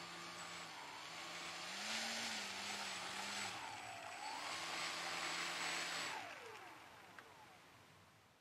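Model racing airplane's motor and propeller running in flight, the pitch shifting up and down as the throttle changes. About six seconds in the pitch drops sharply and the sound fades away.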